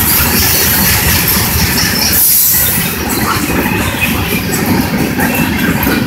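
Freight train of tank cars, boxcars and covered hoppers rolling past close by: a steady, loud rumble of steel wheels on the rails, with irregular clicking and a few brief high squeals from the wheels.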